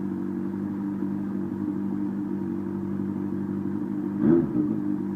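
2002 Yamaha R1 inline-four idling steadily through a Mivv Cone aftermarket exhaust, just after starting, with one short throttle blip a little over four seconds in.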